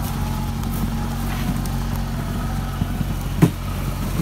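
Truck engine idling steadily, with one sharp clank about three and a half seconds in.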